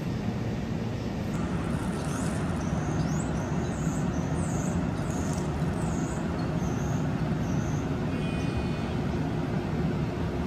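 Steady low hum of a stationary Long Island Rail Road electric train standing at the platform, with birds chirping briefly a couple of seconds in.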